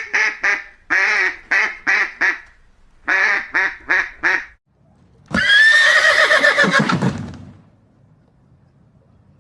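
Two quick runs of short, repeated calls from waterfowl, about four or five a second, then a horse whinnying once, a long trembling call that falls in pitch at the end.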